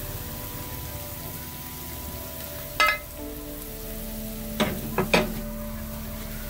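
Tomato slices and chopped greens sizzling in oil in a non-stick frying pan on a gas stove. A sharp clink about three seconds in, and three more in quick succession a second and a half later.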